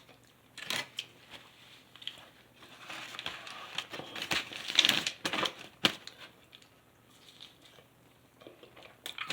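Close-miked eating sounds: chewing and mouth noises with irregular clicks and crunchy bursts, busiest and loudest around the middle.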